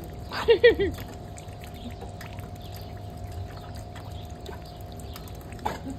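Rainwater dripping and pattering in many small ticks, with a quick run of three short rising-and-falling vocal calls about half a second in and one brief call near the end.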